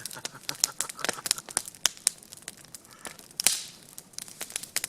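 Wood campfire crackling, with irregular sharp pops and one louder pop about three and a half seconds in.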